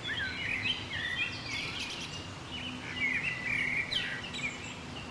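Several small birds chirping and twittering continuously, with many short gliding calls overlapping one another.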